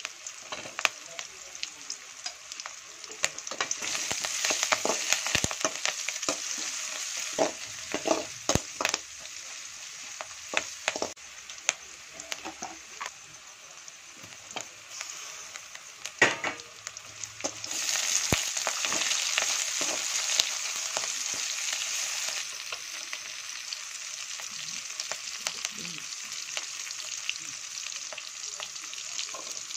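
Onions, green chillies and tomato frying and sizzling in a steel kadai while a steel slotted spoon stirs them, with many sharp clicks of the spoon against the pan. The sizzle grows louder about four seconds in and again about eighteen seconds in.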